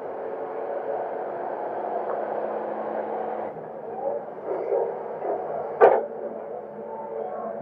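Excavator's diesel engine running steadily, with one sharp knock about six seconds in.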